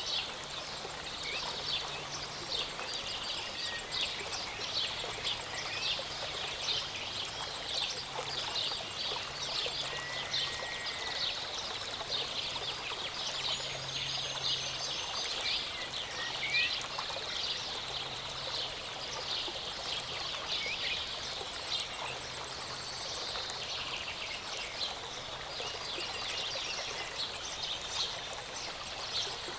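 Small mountain waterfall splashing and trickling steadily, with birds chirping over it and a few clear whistled bird notes standing out.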